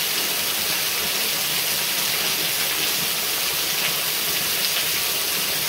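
Red Cedar Falls waterfall: a steady rushing hiss of falling and splashing water.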